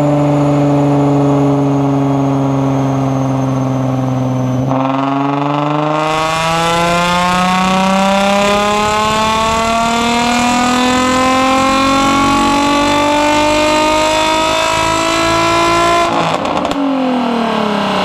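Infiniti G35 coupe's 3.5-litre V6 through a Tomei Expreme Ti titanium exhaust with test pipes under acceleration. The note eases slightly, then about five seconds in climbs steadily in pitch for a long pull. Near the end it breaks off and the revs fall quickly.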